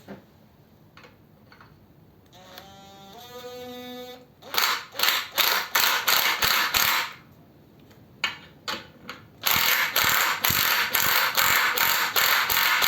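Hand tool working on metal in rapid, repeated ratchet-like strokes, about three a second, in two runs. A short squeak comes before them.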